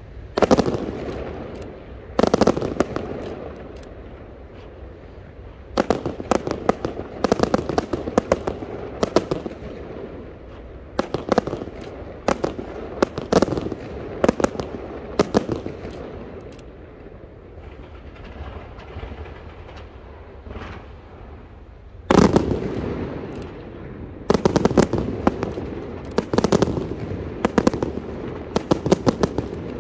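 Aerial fireworks bursting, with single loud bangs and rapid rattling volleys of reports, separated by rumbling echoes. The loudest bursts come near the start and at about two-thirds of the way through, followed by a dense barrage.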